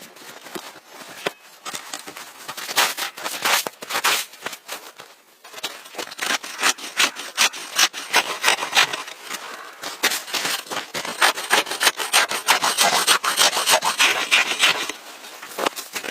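Rhythmic rasping strokes of a hand tool working wood, in bursts early on, then fast and steady from about six seconds in until they ease off near the end.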